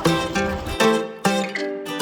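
Background music: acoustic guitar playing plucked, picked notes in a steady rhythm.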